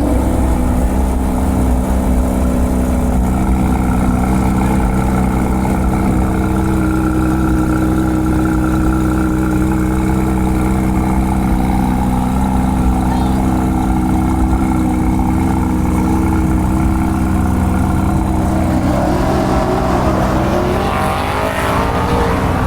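Car engine idling steadily, with a rise and fall in pitch near the end.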